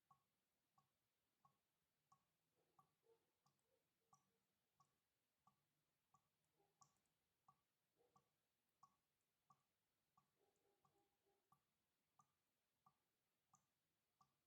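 Water dripping steadily, very faint, about three drops every two seconds, each a short plink; here and there a softer, lower drip falls between them.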